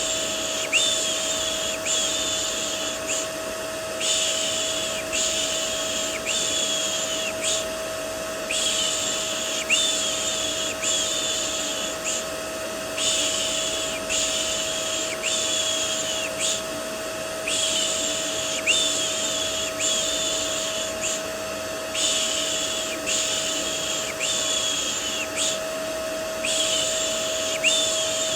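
Rhythmic 'shh' shushing for soothing a baby, repeated in runs of about four with short pauses between runs, over the steady drone of a vacuum cleaner.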